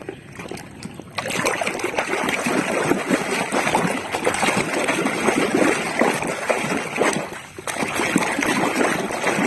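Water splashing and trickling as toy cars are swished and scrubbed by hand in a tub of water. The splashing starts about a second in, stays steady, and eases briefly near the end before picking up again.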